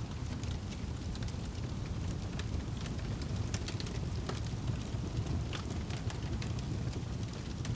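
Wood fire crackling in a fireplace: irregular sharp pops and crackles scattered throughout, over a steady low rumble.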